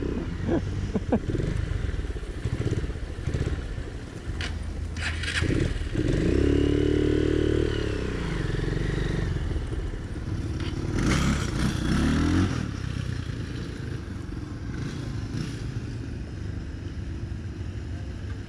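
Motorcycle engine running under way, its note swelling and rising about six seconds in and again around eleven seconds. The rider says the bike does not sound good because the wrong carburetor is fitted.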